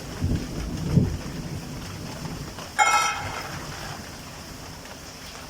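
Steady rain falling, with a low rumble of thunder swelling in the first second or so. About three seconds in, a short, sharp high-pitched sound cuts in and fades within half a second.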